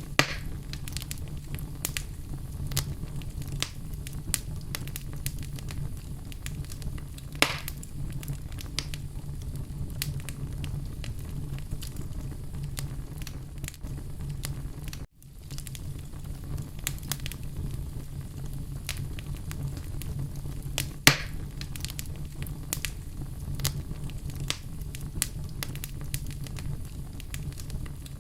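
Wood fire burning in a fireplace: a steady low rumble of flames with frequent small crackles, and two louder pops about 7 seconds and 21 seconds in. The sound cuts out for an instant about halfway through.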